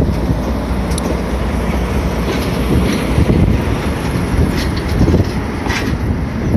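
The SL Moka train rolling slowly through the station while being shunted: a steady low rumble of the cars, with a few sharp clicks from the wheels over the rails.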